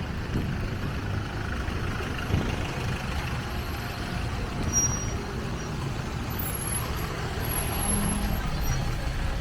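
A motor vehicle engine running nearby: a steady low rumble amid outdoor street noise.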